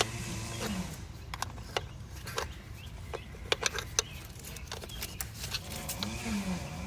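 A dozen or so sharp, irregular metal clicks and clinks of hand tools working on the engine, over a steady low hum.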